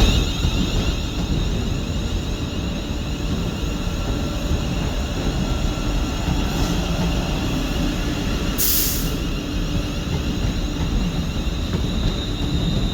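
Train standing at a station platform, running with a steady low rumble and a steady high whine, with a short hiss of released air about nine seconds in.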